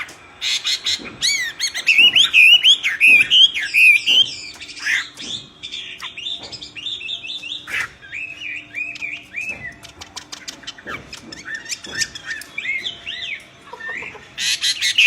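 Myna bird calling loudly in a rapid, chattering run of quick whistled notes that swoop up and down, mixed with sharp clicks; the calling is loudest from about two to five seconds in and again near the end.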